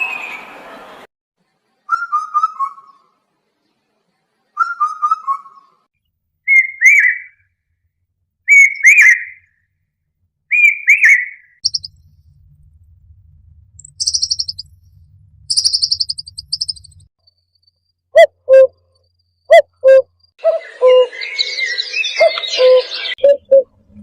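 Calls of several cuckoo species, one recording after another. Short falling whistled phrases come first, then higher slurred whistles, then very high rapid notes, then sharp repeated calls, ending in a denser jumble of calls.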